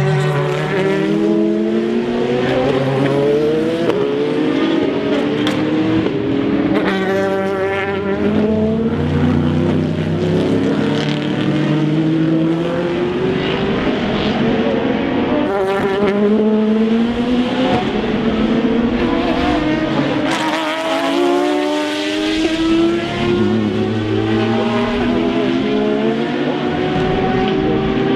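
Endurance race cars accelerating past, several engine notes overlapping at once, each climbing in pitch and dropping back at upshifts, again and again.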